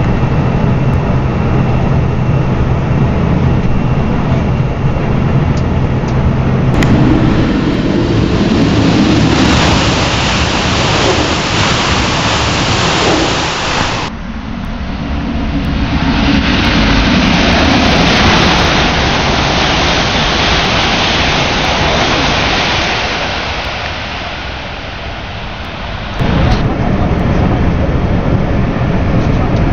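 Cab noise of an ICE 3 high-speed train running at speed: steady rushing noise over a low hum. After a cut about 14 s in, an ICE 3 runs through a station at full speed, its rush building to a peak and dying away over about ten seconds. The steady cab noise returns suddenly near the end.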